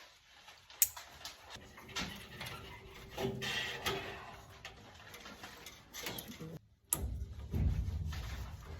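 Irregular clicks, taps and scraping of parts being handled during furnace repair work, with a sharp click about a second in. A low rumble comes in near the end.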